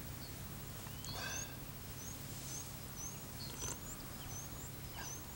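Small birds chirping, with short, high calls repeated again and again, over a steady low hum. A brief, louder sound comes about a second in.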